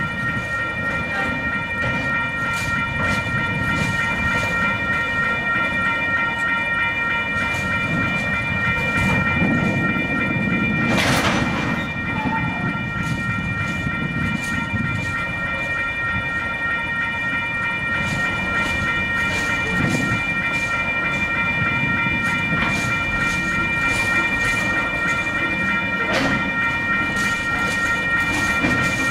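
Container freight train rolling slowly over a level crossing: wagons rumbling and wheels clicking over the rail joints, with the crossing's warning bell ringing steadily over it. A brief harsh noise stands out about eleven seconds in.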